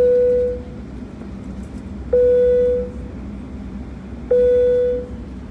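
Airliner cabin chime sounding three times, a single ding about every two seconds, each fading away, over the steady low hum of the cabin. It is the signal ahead of the pre-takeoff announcement.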